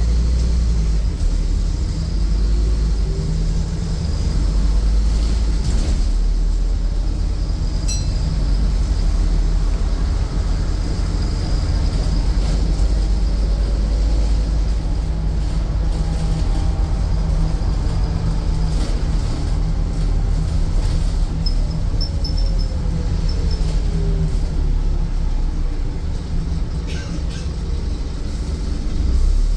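Scania N230UD double-decker bus heard from inside the passenger cabin while under way: its five-cylinder diesel engine and drivetrain give a steady low drone. The engine note climbs and then falls back over several seconds as the bus accelerates and eases off, with a few short rattles from the body.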